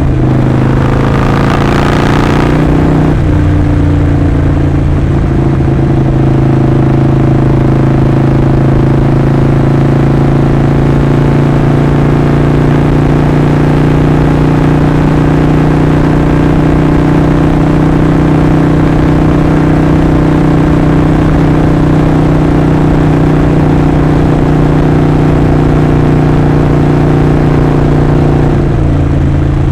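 Harley-Davidson Sportster 48's 1200 cc V-twin exhaust note. For the first few seconds the note shifts under a wash of wind and road noise, then it holds one steady, even pitch until it changes again near the end.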